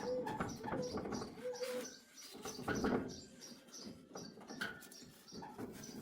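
A small bird chirping over and over in an even rhythm, about three high chirps a second, with knocks and clatter underneath.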